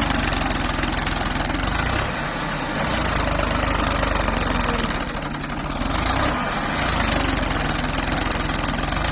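Tractor engine running steadily, its sound swelling and easing back every two to three seconds.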